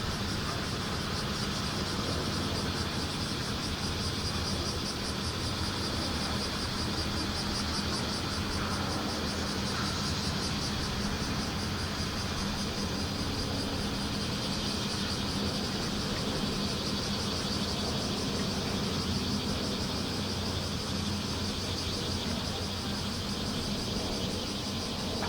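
Bear cicadas buzzing in a steady, fast-pulsing chorus. Under it runs a low, steady mechanical hum.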